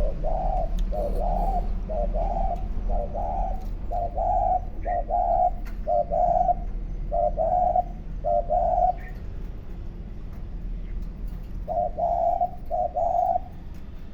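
A dove cooing: a long run of short, even coos at about one and a half a second, a pause of a few seconds, then two more coos near the end.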